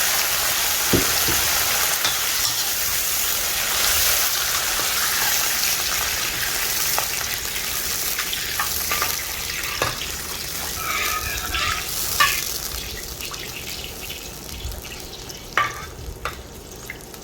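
Prawns, garlic and bean paste sizzling in hot oil in a pan, with a spatula scraping and tapping as it stirs. The sizzle is loud at first and dies down gradually, as the water just added cools the pan.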